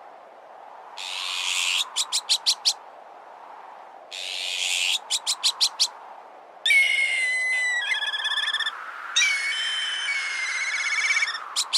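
Recorded bird calls. A harsh rasp is followed by a quick run of about five short notes, and this happens twice. From about halfway there are several seconds of harsh, ringing calls with a wavering pitch, and the short notes start again at the end.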